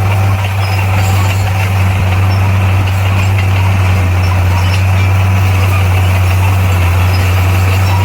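Bulldozer's diesel engine running steadily, a loud, even low drone with no breaks.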